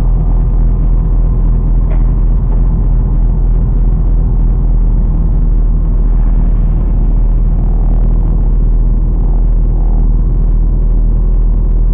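Chevrolet Camaro 2SS's 6.2-litre V8 running steadily while the car creeps forward at walking pace, heard inside the cabin through a dash cam's microphone.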